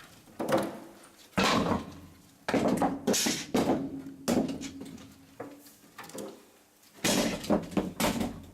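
Steam locomotive fireman's coal shovel, repeated metallic scrapes and clanks about a second apart with a pause in the middle. Each stroke starts suddenly and fades quickly, over a faint steady hum.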